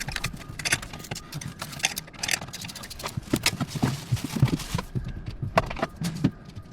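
Irregular metallic clicks and knocks of tools and parts being handled during maintenance work, with a stretch of hissing about two to five seconds in.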